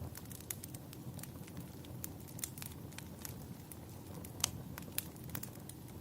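Wood fire crackling steadily: a low rumble of burning with irregular sharp pops and snaps, one louder snap about four and a half seconds in.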